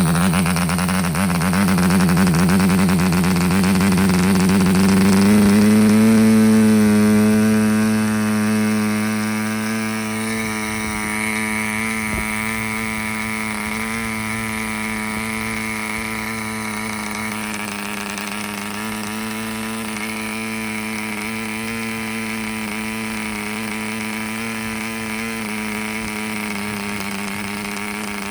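P.M.C. Imp 0.6 cc model diesel engine, a small two-stroke swinging a 7x4 nylon propeller, running. Its note rises over the first five seconds or so, then holds at a high, even pitch.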